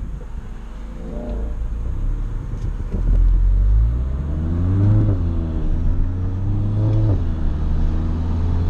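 Volkswagen GTI with an IS38 turbo upgrade, its turbocharged four-cylinder engine heard from inside the cabin, revving up under acceleration from about three seconds in. The pitch dips and climbs again near five seconds, then drops suddenly a little after seven seconds, as at upshifts.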